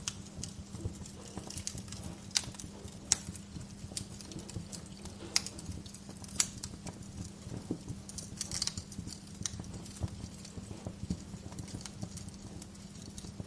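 Wood fire burning in a fireplace, crackling with irregular sharp pops, a few of them louder, over a low steady hum.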